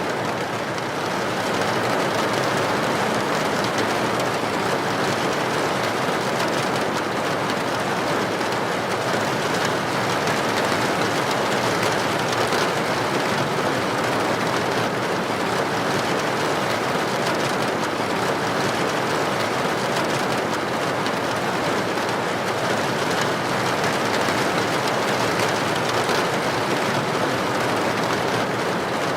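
Heavy rain pattering steadily and densely on a tin roof.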